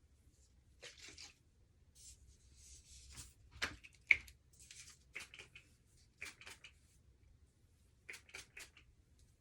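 Scattered light rustles and clicks of small things being handled, with a sharper click or tap about four seconds in.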